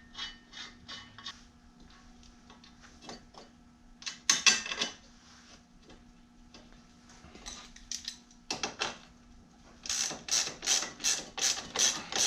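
Ratchet wrench clicking in short strokes as it runs a nut down on the scooter's rear axle, with a fast run of clicks near the end.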